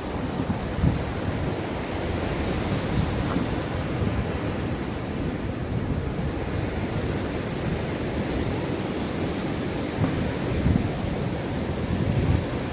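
Ocean waves washing onto the shore, a steady rush of surf with a few louder swells, and wind buffeting the microphone.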